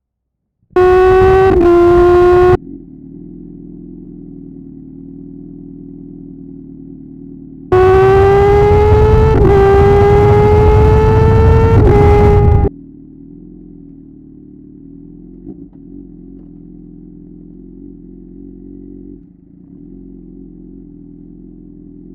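Suzuki GSX-R750's inline-four exhaust pulling hard at high revs with quick upshifts: a short burst with one shift about a second in, then a longer burst of about five seconds with two upshifts, the pitch climbing through each gear. Between and after the bursts the engine runs much quieter and steady off the throttle.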